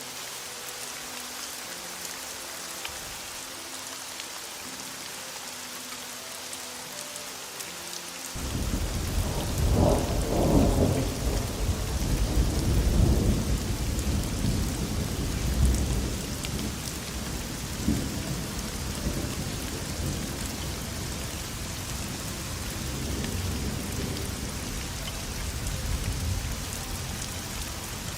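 Steady heavy rain, with a long roll of thunder that breaks in suddenly about a third of the way through, is loudest for several seconds, then rumbles away under the rain.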